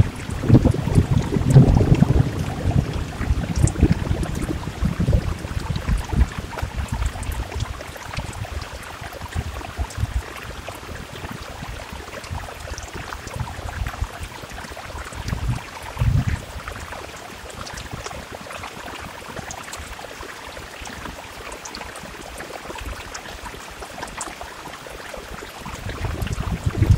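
Steady rain with scattered drop ticks. Under it runs an irregular low rumbling, strongest in the first few seconds, briefly again about sixteen seconds in, and near the end.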